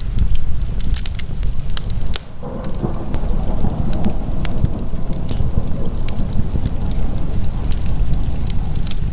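Wood fire crackling in a fireplace, with many sharp pops and snaps over a steady low rumble; the sound dips briefly about two seconds in.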